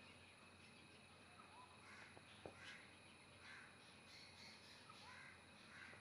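Faint outdoor ambience with distant bird calls repeating roughly once a second, and two soft clicks about two and a half seconds in.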